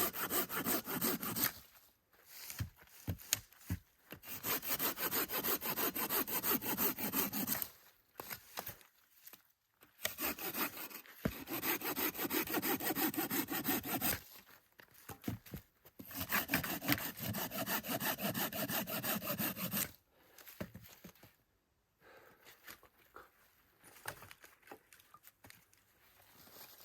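Hand saw cutting wood with steady back-and-forth strokes, in four spells of a few seconds each separated by short pauses. Quieter scraping and handling sounds follow after about twenty seconds.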